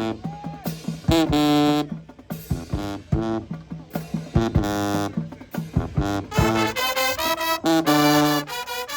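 High school marching band's brass section playing a rhythmic passage of short, punchy notes, some bent in pitch, swelling into fuller, higher chords about six seconds in.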